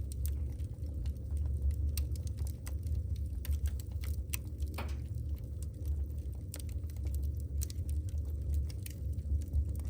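Wood burning in a fireplace: logs crackling with many irregular sharp pops over a steady low rumble, one longer pop a little before halfway.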